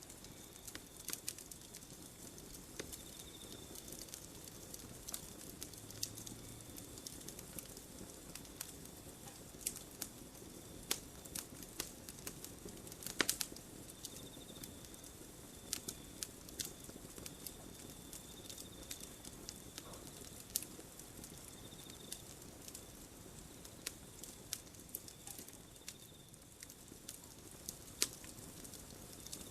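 Wood campfire burning and crackling, with irregular sharp pops and snaps over a soft steady hiss, one louder pop about thirteen seconds in.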